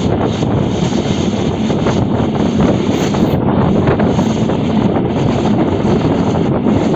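Sundarban Express passenger train running at speed, a steady rumble with wind buffeting the microphone.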